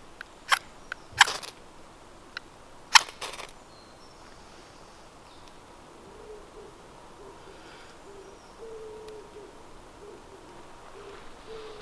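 A bird giving a low, repeated call of short notes with gaps between them, starting about halfway through. There are a few sharp cracks in the first few seconds.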